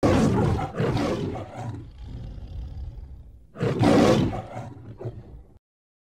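Lioness roaring: two loud, rough roars, one at the start and another about three and a half seconds in, with quieter rasping between.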